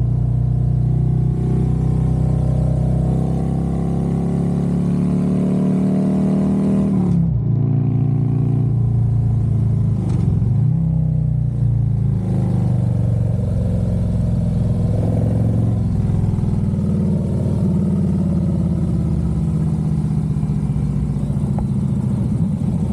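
Harley-Davidson Road Glide's V-twin engine accelerating, its pitch climbing, then dropping sharply at a gear shift about seven seconds in, and pulling up again through the gears.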